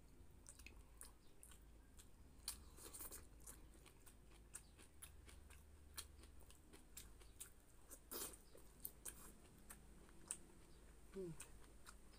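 Faint mouth sounds of close-miked eating: scattered chewing clicks and wet smacks, with a louder one about eight seconds in.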